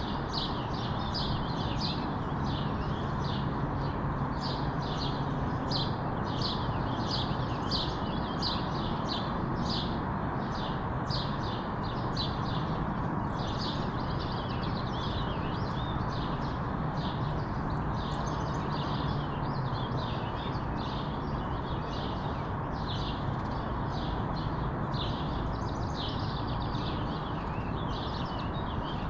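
Small birds chirping: short high chirps repeating about once or twice a second, over a steady low background noise.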